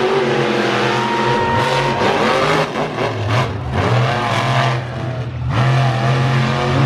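Monster truck engine revving loudly, its pitch rising and falling with the throttle, with a few short drops as the throttle is lifted.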